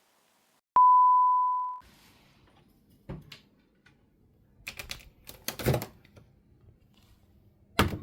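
A single steady electronic beep lasting about a second, starting with a click. It is followed by a few scattered soft knocks and handling clicks.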